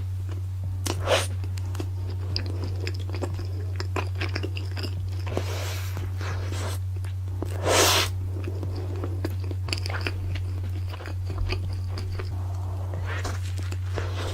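Close-miked mukbang eating: wet chewing and biting of a cheeseburger dipped in cheese sauce, with crunches and slurps, one louder about eight seconds in, over a steady low hum.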